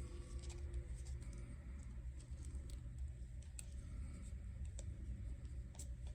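Faint handling of a trading card and its plastic sleeve or top loader: scattered small clicks and ticks of card and plastic, over a steady low hum.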